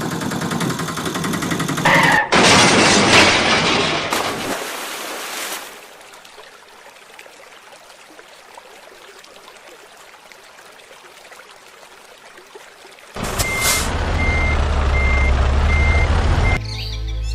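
Heavy vehicle sounds: loud machine noise at first, then a quieter hiss. About 13 seconds in, a diesel engine hum starts with a reversing alarm beeping steadily, about twice a second.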